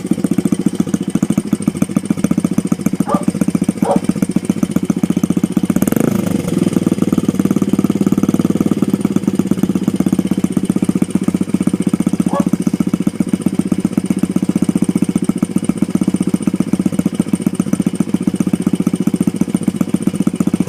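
Honda CRF100 dirt bike's single-cylinder four-stroke engine idling steadily with the exhaust baffle removed, giving a loud, open exhaust note. There are a few brief knocks over it, one about six seconds in.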